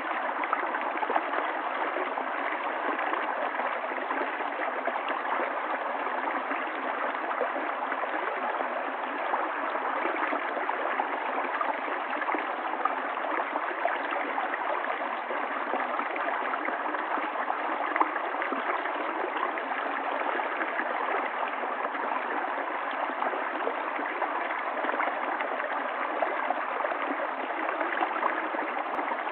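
Running water of a stream, flowing steadily with fine gurgling and splashing.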